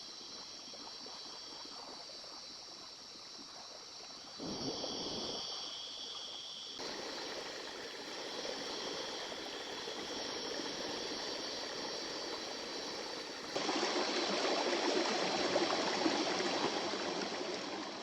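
A small river's water running over stones, heard in a few joined shots. The level jumps abruptly at each cut and is loudest in the last few seconds.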